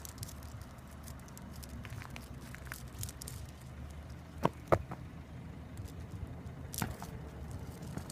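Steady low rumble with scattered light clicks. Two sharp knocks come a quarter second apart about halfway through, and a weaker one comes near the end.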